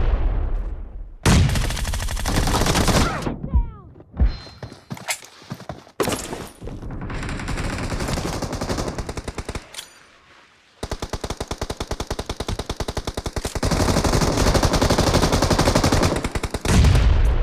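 Video-game gunfire: automatic-weapon shots in bursts, then a long unbroken stream of rapid, evenly spaced shots from about eleven seconds in.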